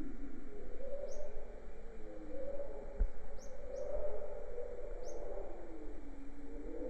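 Jungle bird calls: short high chirps repeating every second or so over lower, continuous wavering calls.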